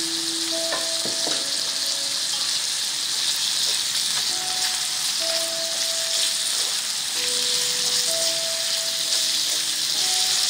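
Shell-on shrimp and minced garlic sizzling steadily in olive oil in a wok over low heat, with chopsticks stir-frying them near the end.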